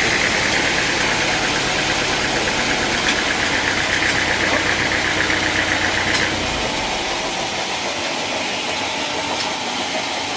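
Engine-driven sawmill machinery running, with a fast pulsing buzz and a low hum that stop about six seconds in, leaving a quieter steady running noise.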